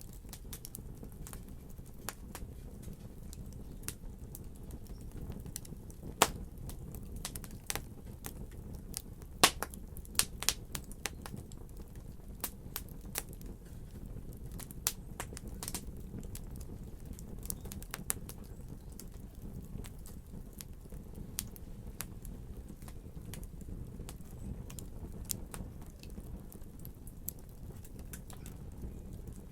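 Fireplace fire crackling, with irregular sharp pops over a steady low rumble; the loudest pops come about six and nine seconds in.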